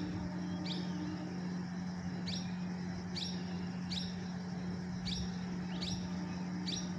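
A small bird chirping over and over, short high chirps that drop in pitch, about once a second. A steady low hum runs underneath.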